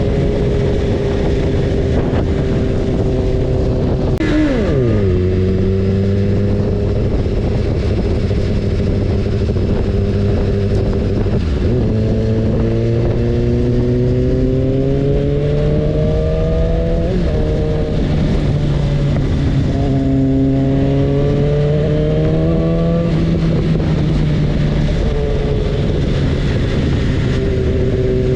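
BMW S1000RR's inline-four engine under riding, its revs dropping sharply about four seconds in, then climbing twice, each climb ending in a quick drop at a gear change, over a steady rushing noise.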